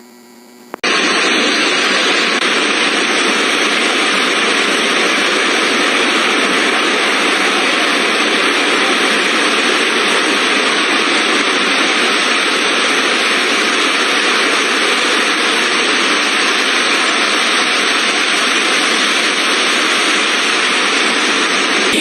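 Heavy rain pouring down in a steady, loud hiss that starts suddenly about a second in.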